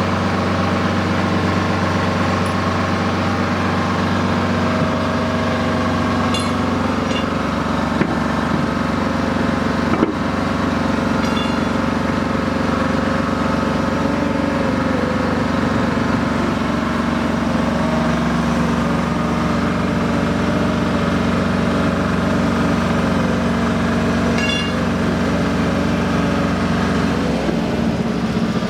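A heavy engine running steadily, its low note shifting about seven seconds in and dropping away near the end, with a single sharp knock about ten seconds in.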